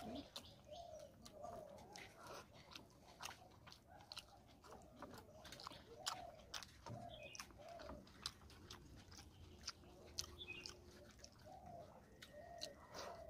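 Close, quiet eating sounds of rice and fish curry being eaten by hand: wet chewing and small mouth clicks throughout. A pigeon coos softly in the background, in short repeated notes.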